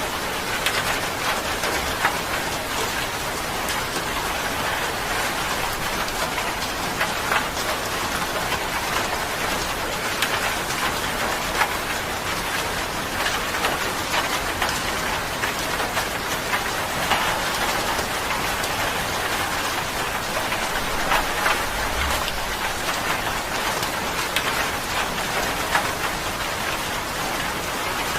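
Steady rain falling on a surface, an even hiss with scattered individual drop splats.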